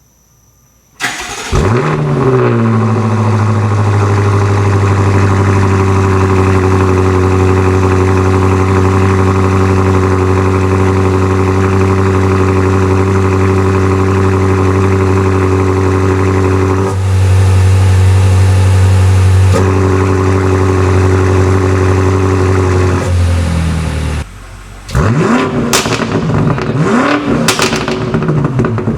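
BMW F90 M5's twin-turbo V8 through an aftermarket valved catback exhaust, starting up about a second in. The engine flares, then settles into a steady high idle, typical of a cold start. Near the end it gives a few quick revs that rise and fall.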